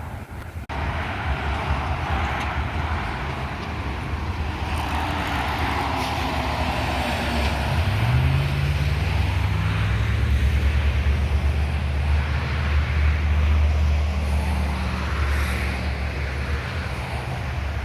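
Roadside traffic: tyre noise, then a heavy truck's engine rumbling past from about eight seconds in, its pitch rising briefly at first.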